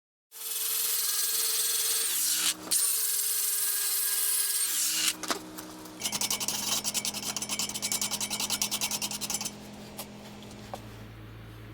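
A power tool running with something rasping against the workpiece, first steadily, then in quick pulses about five times a second. Near the end the rubbing stops and a quieter steady motor hum goes on.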